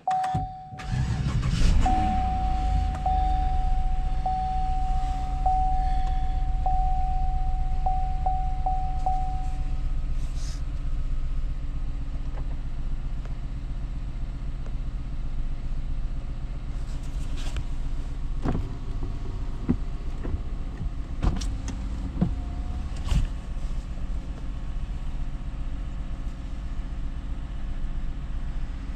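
A 2018 GMC Yukon's V8 engine starting and settling into a steady idle, with a single steady chime tone for about the first ten seconds. No cooling fan is running: the fan that would not stop is cured by the new coolant temperature sensor.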